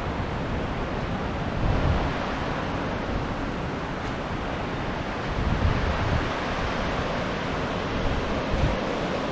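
Waves washing onto a beach under a steady rush of surf, with strong wind buffeting the microphone in low gusts, loudest about two seconds in, around five and a half seconds in and near the end.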